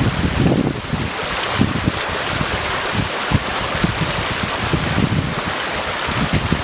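Forest stream water rushing steadily, with gusts of wind buffeting the microphone in low, irregular rumbles.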